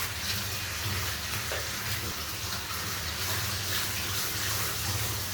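Water running steadily from a tap or hose while a puppy is being bathed, with a low steady hum underneath.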